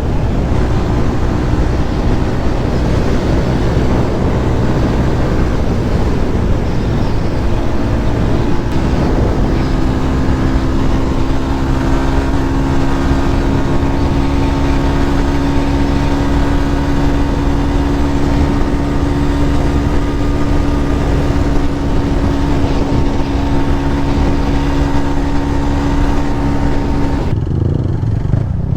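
Motorcycle engine running under way on a ride, with road and wind noise; the engine note holds a steady pitch from about a third of the way in, as at a constant cruising speed, and the higher noise drops away shortly before the end.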